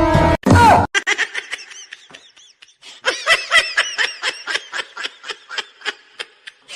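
High-pitched laughter in a quick run of short bursts, about four a second, strongest from about three seconds in. It is preceded at the very start by a brief loud burst of noise with a falling whistle.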